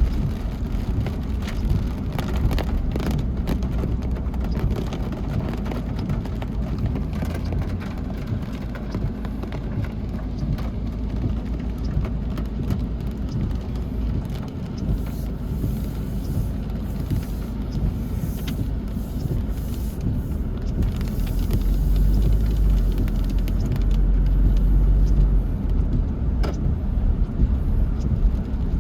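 Road traffic: cars running past in a steady rumble, growing louder for a few seconds about three-quarters of the way through.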